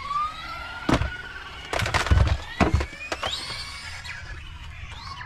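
RC truck's electric motor whining, rising steadily in pitch as it speeds up, with several sharp knocks as the truck bounces over the ground, the loudest a cluster about two seconds in.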